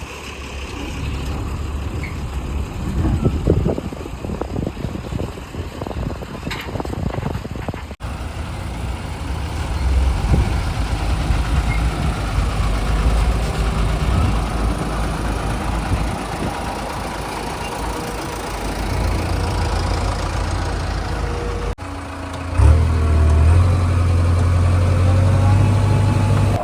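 Diesel engines of heavy vehicles running, in three spliced stretches. The last stretch, starting abruptly near the end, is louder, with a steady low engine hum.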